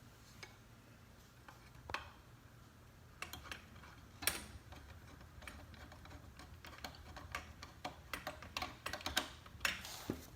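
Irregular small clicks and taps of ceiling fan blade parts and screws being handled while a blade is fitted to its blade arm. They are sparse at first and come more often from about three seconds in, with one sharper click near the middle.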